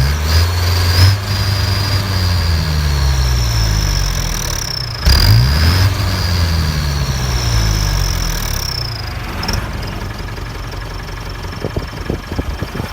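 Mahindra CJ 500 DI jeep's diesel engine revved twice in short blips, at the start and about five seconds in, each time falling back to idle over a few seconds. A high whistle from an aftermarket turbo whistle comes in with each rev and fades as the engine slows.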